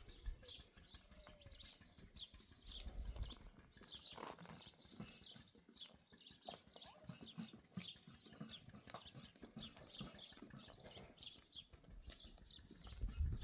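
Faint chirping of small birds, many short high notes repeating throughout, with a few scattered knocks and low rumbles.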